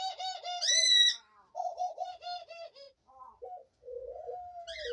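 Pet doves cooing: a quick run of short pulsed coos for the first couple of seconds, with a louder, higher-pitched call over it in the first second, then a few short notes and one long drawn-out coo near the end.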